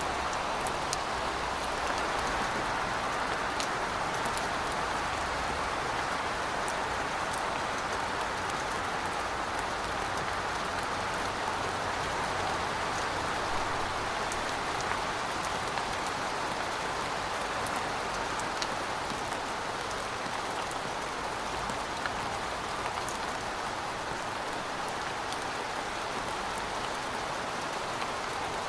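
Rain falling steadily, with scattered sharp drop ticks over an even hiss; no thunder.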